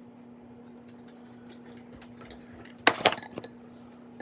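A spoon clinking against a small dish several times in quick succession about three seconds in, with a brief ring from the dish after the strikes. A faint steady hum runs beneath.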